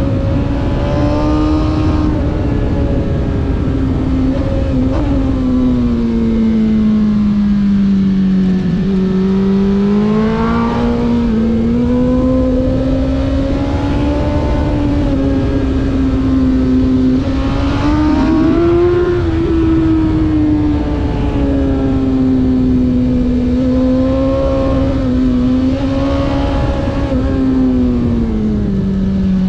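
Race vehicle's engine running hard at high revs, its pitch slowly rising and falling as it accelerates and lifts off, over steady road and wind noise.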